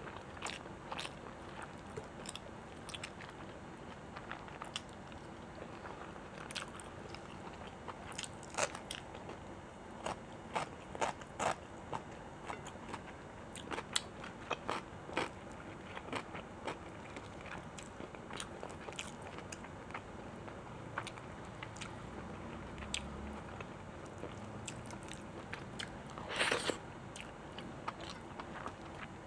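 Close-miked eating: a person chewing and biting into food, with crisp crunching clicks spread throughout. The densest, loudest run of crunches comes near the end.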